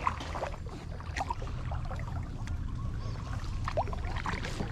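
Kayak paddling: light water splashes and trickles from the paddle strokes, over a steady low rumble.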